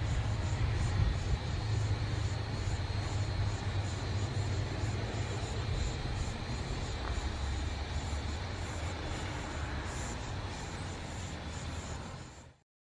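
The rear wagons of a heavy freight train rolling past on the rails: a steady low rumble of wheels and cars that eases off as the last wagons go by. It cuts off suddenly near the end.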